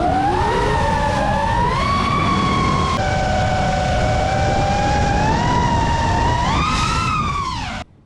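FPV quadcopter's brushless motors and propellers whining over rushing wind, the pitch rising and falling with the throttle. The pitch jumps suddenly about three seconds in, and the sound cuts off abruptly near the end.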